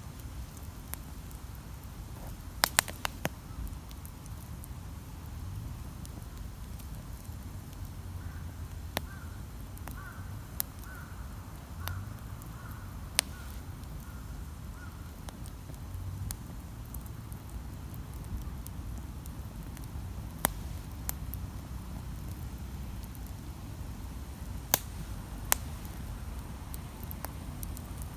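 Wood campfire burning with a steady low rumble and occasional sharp crackles and pops, a quick cluster about three seconds in and two more near the end. Between about 8 and 15 seconds a faint short call repeats about a dozen times, roughly every half second, like a distant bird.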